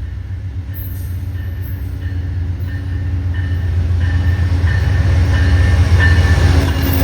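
Amtrak passenger train approaching, its diesel locomotive's low engine rumble growing steadily louder as it nears.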